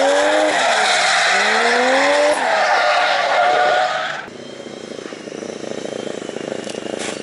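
Drift car engine revving hard, its pitch rising and falling, over the hiss of tyres skidding sideways. It drops away suddenly about four seconds in, leaving a quieter steady hiss.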